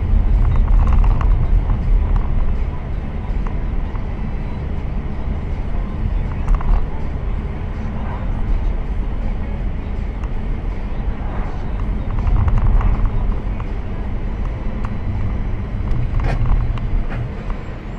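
Steady low rumble of a moving car, road and engine noise as picked up by a dashcam, swelling and easing a little, with one sharp knock about sixteen seconds in.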